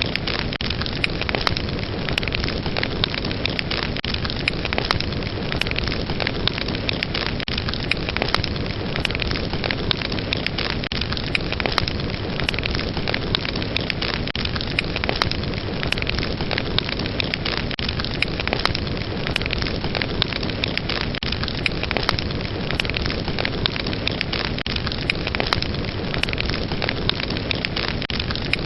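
Wood fire burning steadily, with a constant rush of flames and many sharp crackles and pops scattered throughout.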